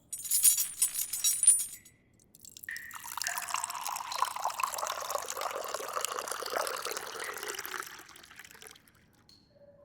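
A glass clinks with bright ringing strokes in the first two seconds. Then water is poured into the glass for about five seconds.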